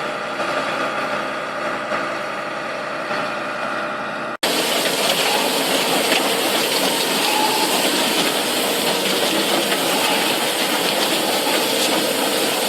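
Heavy machine engine running steadily with an even hum, then a sudden cut about four seconds in to a louder, hissing mechanical rush.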